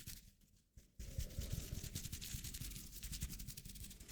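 Close-up rubbing of hands together, a soft scratchy noise made of many fast fine strokes, starting about a second in after a brief quiet.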